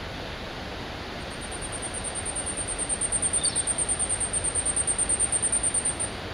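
Asian stubtail singing: a rapid series of very high, thin pulses that starts about a second in, grows steadily louder and stops shortly before the end, over a steady hiss.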